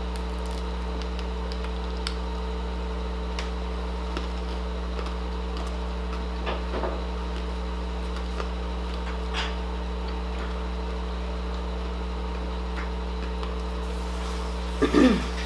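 A steady electrical hum, with a few faint small clicks and soft eating noises of people eating a donut. A brief louder murmur of voice comes just before the end.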